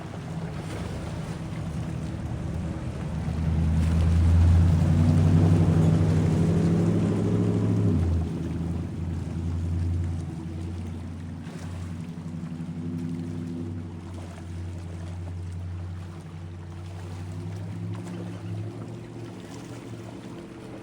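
A motorboat engine running with a steady low drone. It grows louder over the first few seconds, then throttles back about eight seconds in and runs on at a lower pitch.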